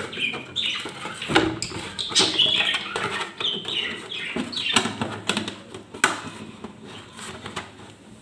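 Caged pet budgerigars and zebra finches chirping repeatedly in short, falling calls, with a few sharp knocks of plastic being handled.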